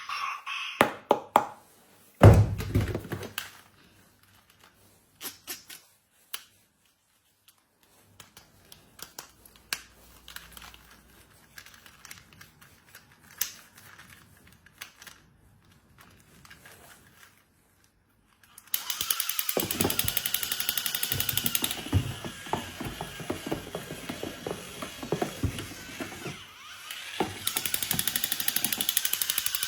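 Clicks and a single thump of objects being handled, then, about two-thirds of the way in, a small motor starts whirring with a steady rapid buzz that runs on.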